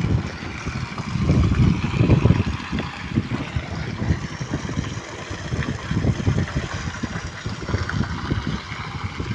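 Wind buffeting the microphone in uneven gusts, with a fainter steady rushing hiss underneath.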